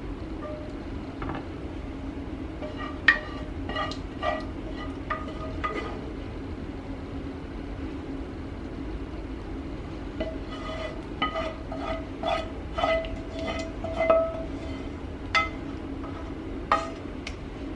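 A utensil clinking and scraping against kitchen dishes as condensed cream soup is spooned and spread over a casserole. The short clinks ring briefly, a few at first and then a busier run in the second half, over a steady low hum.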